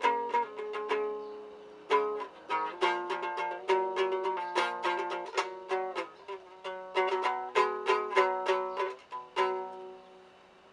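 Altai topshur, a two-string plucked lute with horsehair strings tuned a fourth apart, built by Eduard Kosterov, strummed in a quick rhythmic pattern. A last stroke near the end rings out and fades away.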